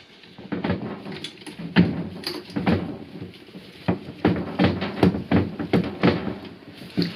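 A rapid, irregular series of knocks and clunks, about fifteen in all, as parts of a washing machine are handled during disassembly.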